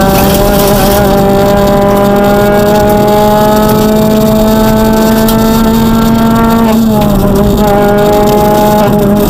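Citroën DS3 R1 rally car's four-cylinder petrol engine running hard at high revs, heard loud from inside the stripped cockpit. The revs climb slowly for about seven seconds, then the pitch dips briefly and holds steady again a little lower.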